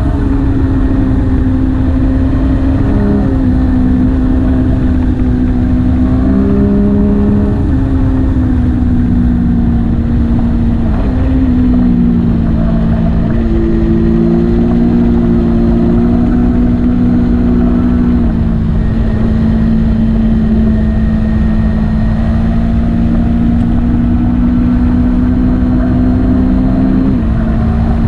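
Motorcycle engine running steadily under way, its pitch holding for a few seconds at a time and stepping up and down, with brief dips about eleven seconds in and near the end.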